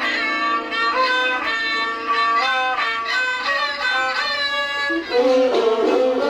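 Thai classical homrong overture played on bowed fiddle with accompanying instruments, a running melodic line of quick notes; about five seconds in a lower, fuller register comes in.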